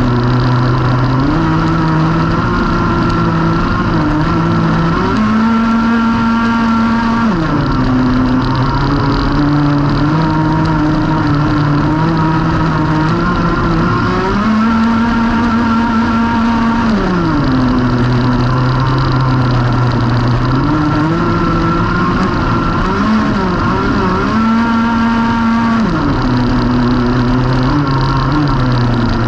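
Racing go-kart engine running hard on a lap. Its pitch holds steady, climbs in steps and then falls back, several times over.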